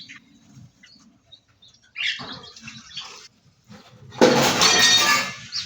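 Small aviary birds giving short chirps, followed about four seconds in by a loud rustling burst lasting about a second.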